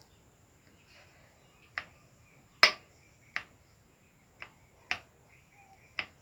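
Six sharp, separate clicks at irregular intervals, the loudest about two and a half seconds in.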